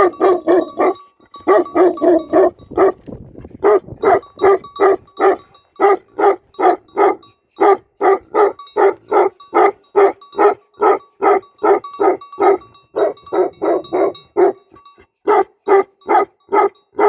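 Tibetan mastiff barking over and over in a steady rhythm, about two to three barks a second, with a couple of short breaks early on.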